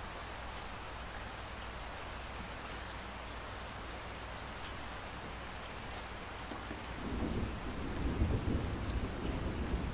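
Steady rain falling, a dense hiss with scattered drop ticks; about seven seconds in, a low rumble of thunder swells up and rolls on to the end.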